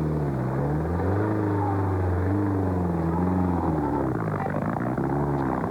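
A classic car's engine running, its revs rising and falling several times.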